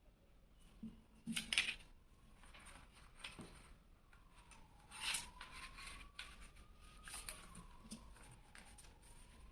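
A sheet of paper being handled and folded: crinkling rustles and sharp creasing sounds, loudest about a second and a half in and again around five seconds in.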